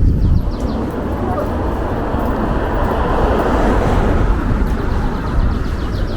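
Wind buffeting the microphone with a deep, steady rumble, over city street traffic; a vehicle's noise swells and fades about halfway through.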